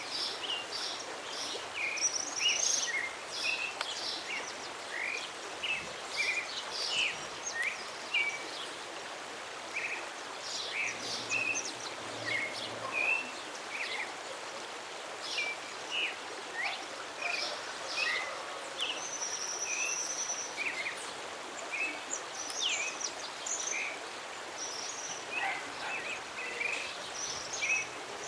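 Birdsong from a native Brazilian songbird: a busy run of short, high chirps and whistled notes over a steady background hiss, with one longer, held high note about two-thirds of the way through.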